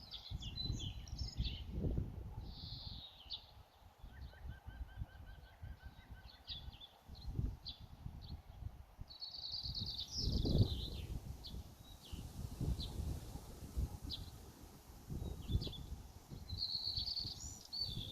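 Several birds chirping and singing in short, varied phrases, with a quick trill of rapidly repeated notes about four seconds in. An uneven low rumbling noise runs underneath, swelling loudest about ten seconds in.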